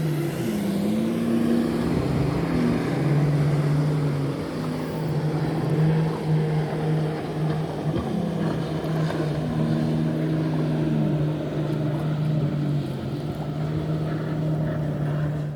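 Motorized watercraft engines on a lake: a steady low engine drone, with a second engine note that swells and fades twice as another craft goes by.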